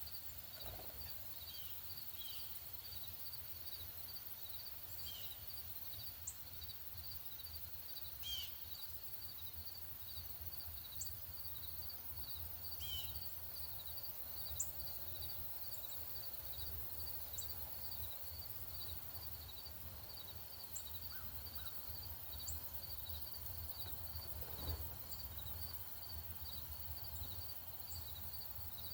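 Outdoor ambience: a steady, evenly repeated high insect chirp runs throughout, while birds give scattered short, sharp chip calls and a few brief falling notes, over a low rumble.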